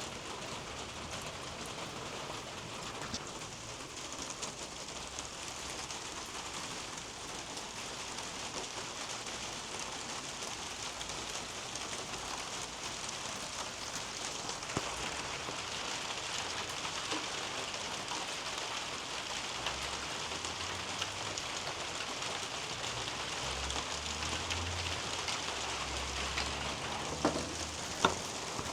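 Steady rain falling on the leaves of a garden canopy, an even patter with scattered single drops. Two louder drips land near the end.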